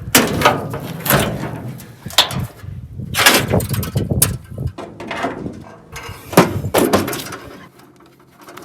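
A door being opened, with a run of loud, irregular clunks and rattles. The heaviest come about three seconds in and again at about six and a half seconds.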